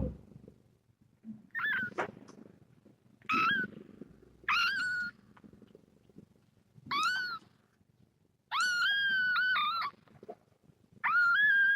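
Young kitten meowing over and over in high-pitched cries, about six calls, one of them longer and drawn out a little past the middle.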